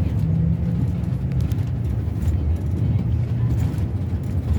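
Scania K360 coach's diesel engine running with a steady low drone.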